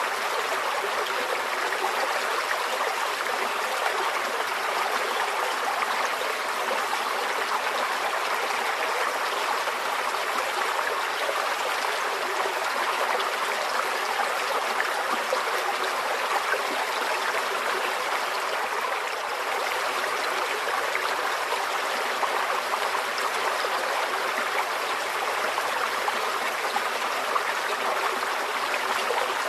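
Small forest stream flowing steadily over stones, a continuous babbling and trickling.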